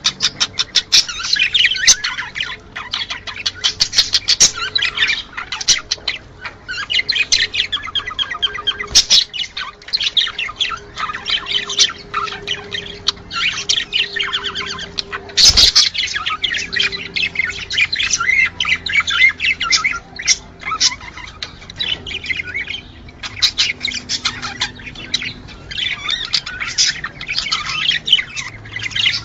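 Budgerigars chattering and warbling continuously, several birds at once, with squawks mixed in. A single sharp knock sounds about halfway through.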